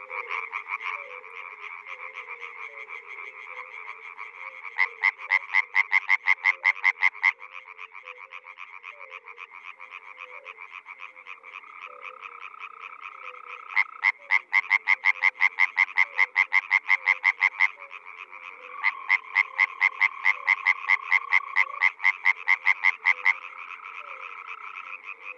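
European tree frogs (Hyla arborea) calling in chorus. A nearby male breaks in three times with a loud, fast rattle of pulsed notes, about seven a second, each bout lasting a few seconds, over the steady chorus of other males.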